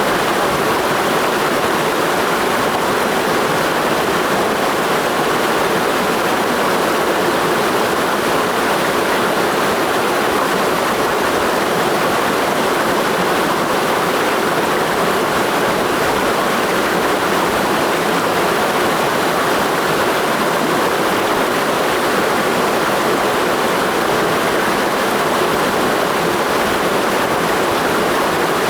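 Clear mountain stream flowing: a steady, even rush of water that does not change.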